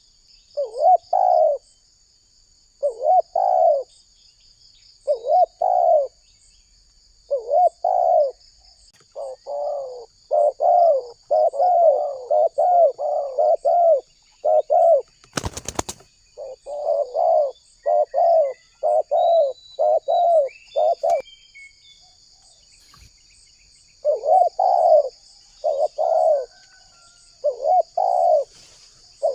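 Spotted dove cooing over and over in short, rough, repeated phrases, with a pause of a few seconds about two-thirds of the way through. A steady high insect trill runs behind it, and there is one sharp click near the middle.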